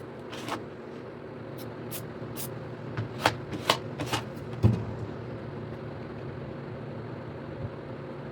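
A run of sharp clicks and taps, bunched about three to four seconds in and ending in a heavier knock, over a steady low hum.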